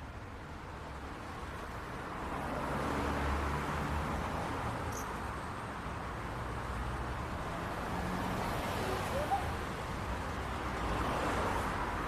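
City street traffic: a steady hum of cars with tyre and engine noise, swelling as vehicles pass about three seconds in and again near the end. A short faint chirp sounds once a little before that second pass.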